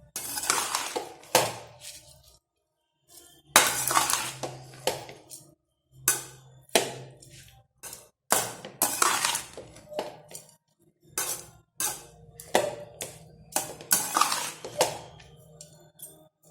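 Metal kitchen utensil clanking and scraping against a cooking vessel in about six separate bursts of sharp clatter with a ringing tail, over a faint low hum.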